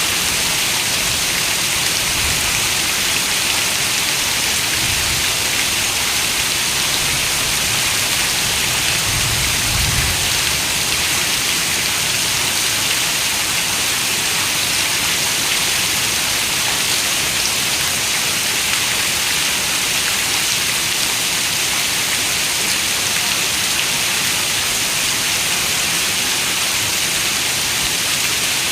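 Steady rain falling: a dense, even hiss of raindrops with no let-up.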